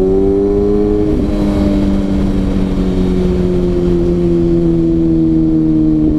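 Kawasaki ZX6R inline-four sport bike engine under way, its pitch climbing, then dropping slightly with a brief break about a second in, as on an upshift, and then easing slowly lower while cruising.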